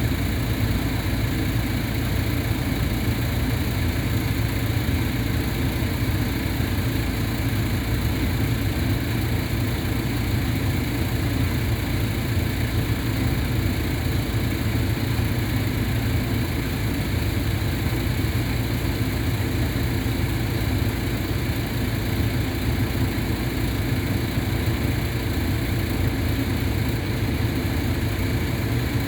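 A machine running with a steady, low vibrating drone that does not change. The owner is unsure whether the vibration is normal.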